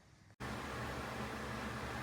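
A steady hiss over a low, even hum, cutting in abruptly about a third of a second in after near silence.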